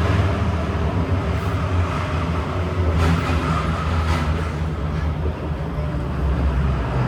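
Interior running noise of a Kawasaki Heavy Industries & CRRC Sifang CT251 metro car as it runs into a station: a steady, loud low rumble with a rapid rhythmic pounding from the car's flat wheels.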